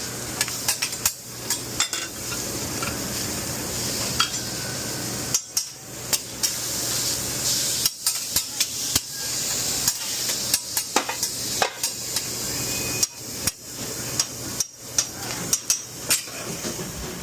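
Commercial burger-grill cooking: a steady sizzle, with frequent sharp metal clanks and taps of utensils on the cooking surface, over a low steady hum.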